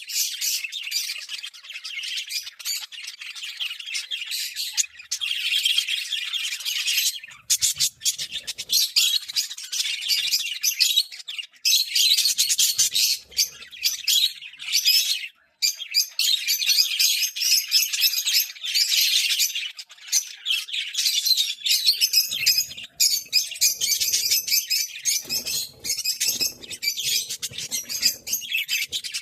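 Budgerigars chattering and chirping continuously in quick, high-pitched warbles, with harsher squawks mixed in.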